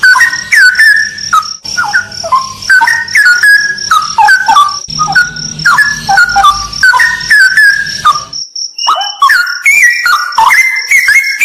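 Straw-headed bulbul singing loud, rich, gliding whistled phrases one after another, over a steady high pulsing trill. The song breaks off briefly about eight seconds in, then starts again.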